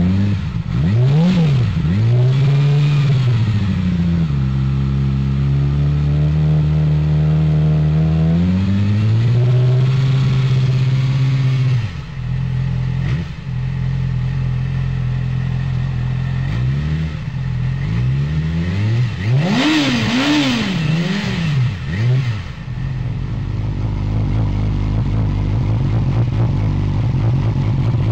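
Yamaha R6 RJ15's 600 cc inline-four engine revved through its exhaust: a few quick throttle blips, a held higher rev of a few seconds that drops back to a steady idle, and later a burst of several quick blips before it settles to idle again.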